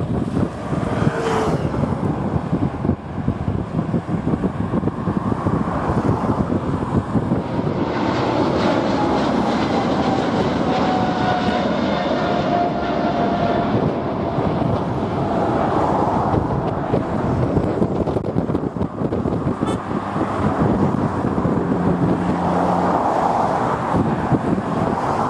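Jet airliner engines rumbling on take-off, with wind buffeting the microphone and road traffic. An engine whine falls slightly in pitch around the middle.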